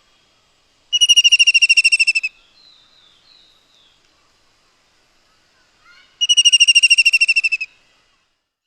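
A bird call given twice: a rapid, high, even trill of about a dozen notes a second, each trill lasting about a second and a half, with faint softer chirps between them.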